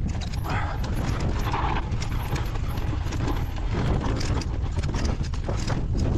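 Wind buffeting the microphone on a moving bicycle, with a steady low rumble and frequent irregular clicks and rattles.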